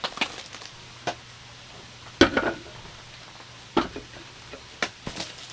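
Gambas sizzling in oil in a pan, with several sharp clinks of utensils on cookware. The loudest clink comes a little over two seconds in.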